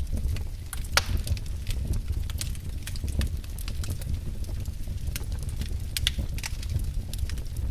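Wood fire burning in a fireplace: irregular crackles and sharp pops over a low, steady rumble of flame, with one louder pop about a second in.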